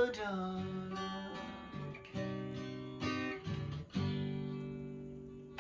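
Acoustic guitar playing the closing chords of a song: a strummed chord about once a second, each left to ring and fade, with the last one cut off just after the end.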